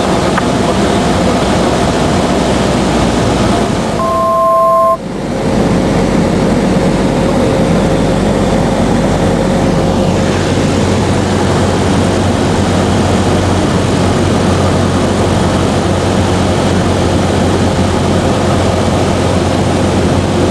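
Cabin noise of a Cessna 172 SP in flight: the piston engine and propeller running steadily, as heard in the cockpit. About four seconds in, a brief two-note electronic tone sounds for about a second while the background noise dips.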